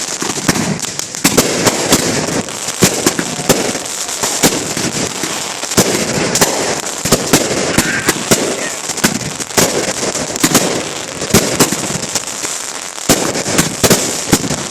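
Consumer fireworks going off: many sharp, irregular cracks and bangs, often several a second, over a steady hiss.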